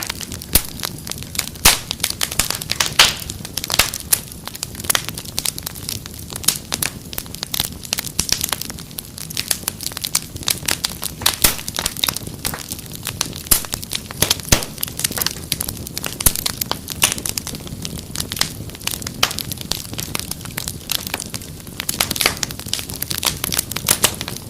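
Fireplace fire crackling: dense, irregular pops and snaps over a low, steady rumble of the flames.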